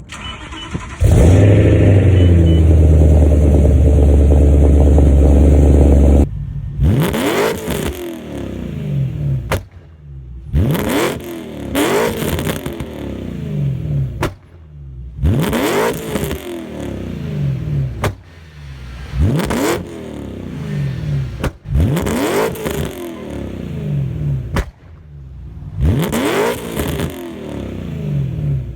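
BMW E9X M3's S65 V8 through an aftermarket exhaust, held at a steady raised rpm for about five seconds, then revved again and again, each rev rising and falling, roughly every couple of seconds.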